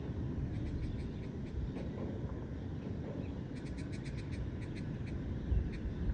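Park ambience at dusk: a small bird gives short high chirps, with a quick run of them about halfway through. Under it runs a steady low rumble of wind and distant city noise, and there is a low thump of wind on the microphone near the end.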